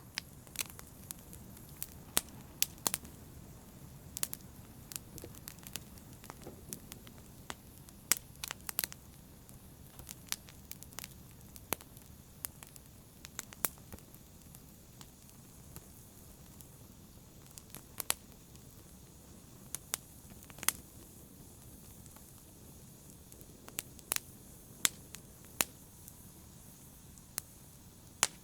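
Wood fire burning in a fireplace, crackling with irregular sharp pops and snaps over a soft low rumble of the flames.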